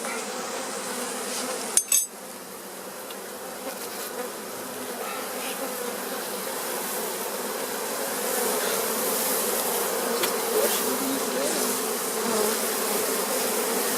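Many honey bees buzzing around an opened hive, a dense steady hum that slowly grows louder. There is one sharp knock about two seconds in.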